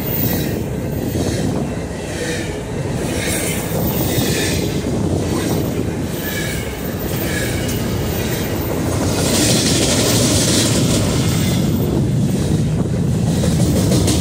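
Double-stack intermodal container cars of a freight train rolling past close by: a steady rumble of steel wheels on the rail, with a clickety-clack of wheels over rail joints. A louder hiss rises for about two seconds past the middle.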